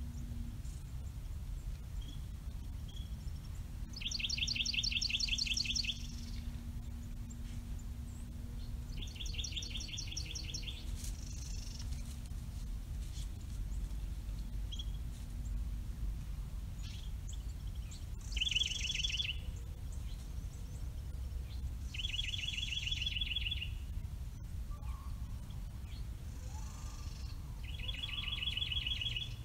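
A songbird singing a short, fast trill of rapidly repeated high notes, five times a few seconds apart, over a steady low background rumble.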